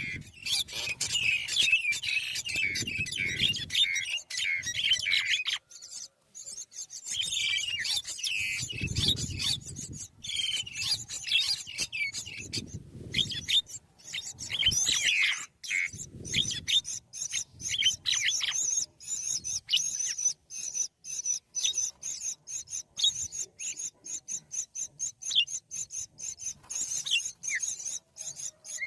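Birds chirping in quick, high gliding notes, with a low rumble about every two seconds. In the second half the chirps thin out, and rapid clicks with a steady high whine take over.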